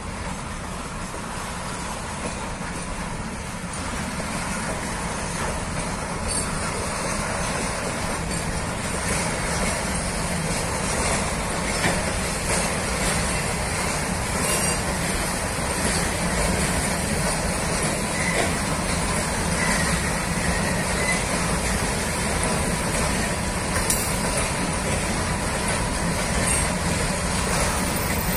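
Freight train of fuel tank wagons rolling past on the rails, a steady noise of wheels and rolling stock that grows gradually louder.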